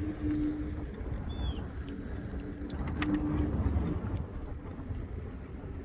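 Inmotion V12 HT electric unicycle riding: a steady hum from its hub motor that breaks off and returns, over a low wind rumble, with a single short bird chirp about a second and a half in.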